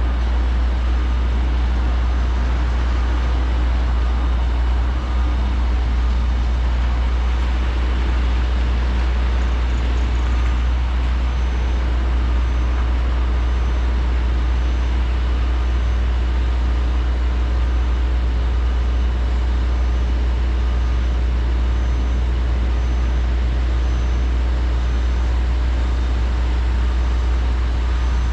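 Volvo 235EL excavator's diesel engine running steadily, a constant low drone with no sharp knocks.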